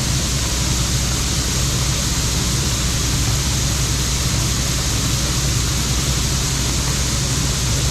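John Deere 4400 combine running steadily while harvesting corn: a constant low engine hum under a broad mechanical rush, with no change in pitch or level.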